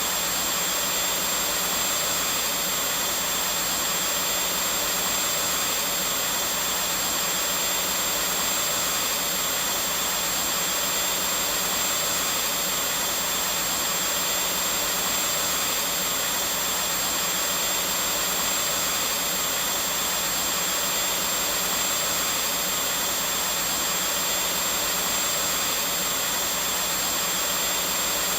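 Vacuum cleaner running steadily, a constant airy roar of motor and suction with a thin high whine over it.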